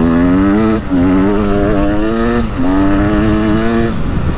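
Beta 300 Race Edition's two-stroke single-cylinder engine pulling hard on a throttle roll-on, its pitch climbing steadily. It is interrupted by two quick gear shifts, about a second and two and a half seconds in, and the throttle closes near the end.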